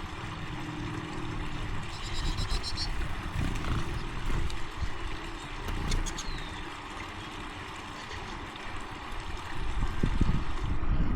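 Outdoor ambience of wind buffeting the microphone with a fluctuating low rumble, louder near the end. Around two seconds in there is a brief run of quick high ticks, and around six seconds a couple of sharp clicks.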